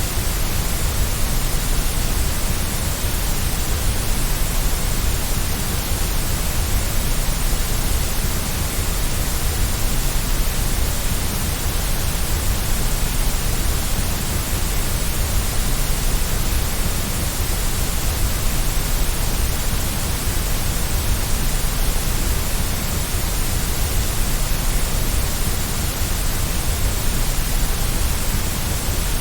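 Steady, unchanging white noise: an even hiss with a deeper rumble underneath, played to soothe a baby to sleep.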